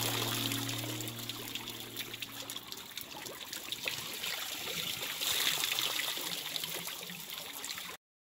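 Running water trickling and splashing, a steady rush with many small drips and splashes. Music fades out in the first couple of seconds, and the water sound cuts off abruptly near the end.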